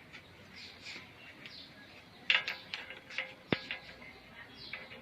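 Small birds chirping over and over in short falling chirps, with a few sharp clicks or knocks about two and three and a half seconds in.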